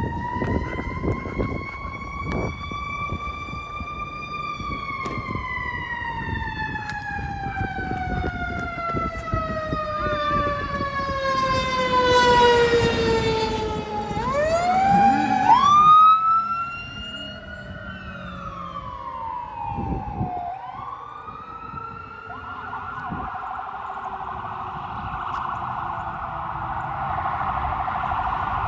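Fire engine and ambulance sirens on an emergency response. A long wail rises and then slowly falls, growing loudest about 12 to 16 seconds in, with a few quick rising whoops. A second wail rises and falls, then switches to a rapid yelp, over the low rumble of the trucks' engines.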